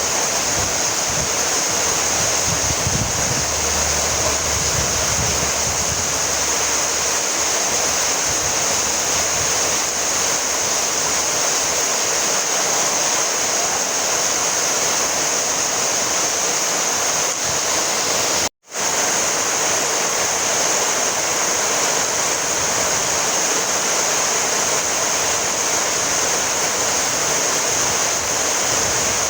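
Steady rainfall, an even hiss of falling rain with no distinct drops or thunder. It cuts out completely for a split second about two-thirds of the way through, then resumes unchanged.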